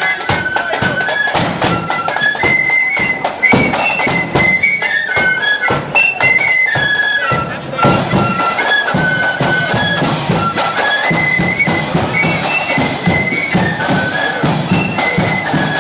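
Marching flute band playing a tune, the flutes carrying a high, stepping melody over a steady beat of side drums and bass drum.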